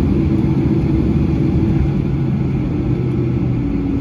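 Steady, loud vehicle rumble with a low droning hum, one tone of which drops slightly in pitch near the end.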